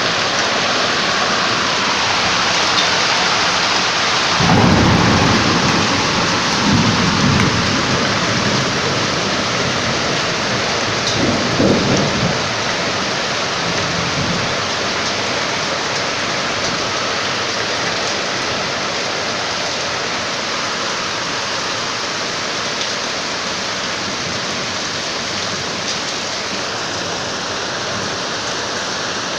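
Heavy rain pouring down steadily during a thunderstorm. A loud thunder rumble breaks in about four and a half seconds in, rolls on for a few seconds and rumbles again about twelve seconds in.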